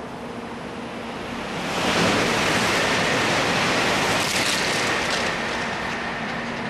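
A Shinkansen train passing through the station at speed: a loud rushing swell that builds about a second and a half in, holds for about three seconds, then fades.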